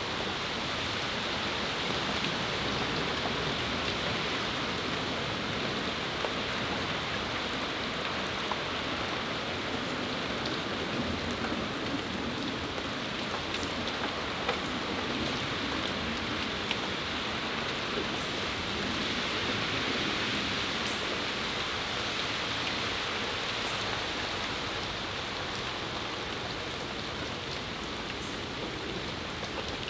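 Steady rain shower falling, an even hiss with scattered sharp ticks of individual drops.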